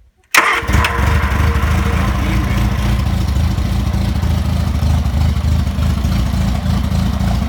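Morris Marina 1.3 A-Series four-cylinder engine on a test rig starting on the key, catching almost at once about half a second in, then running steadily. The engine is already warm from earlier running.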